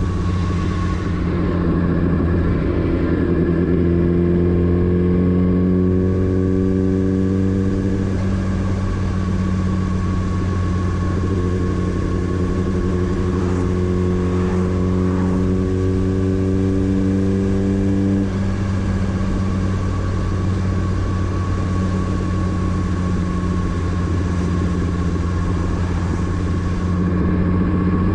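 Motorcycle engine running steadily, with a slightly rising tone twice: about two seconds in and again about eleven seconds in.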